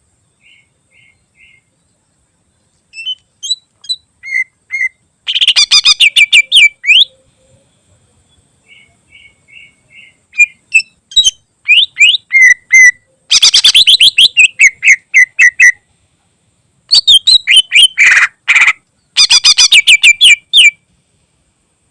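Cucak ijo (green leafbird) singing: a few soft single notes, then repeated bouts of loud, rapid chattering trills with short pauses and quieter notes between them.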